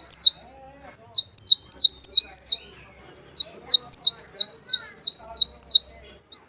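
Cinereous tit (gelatik batu) singing: clear, high, sharp notes repeated rapidly, about five or six a second, in runs of a couple of seconds with short pauses between them.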